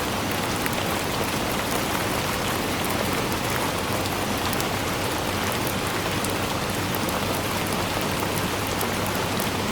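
Steady rainfall: an even hiss of rain with many small, sharp drop taps scattered through it.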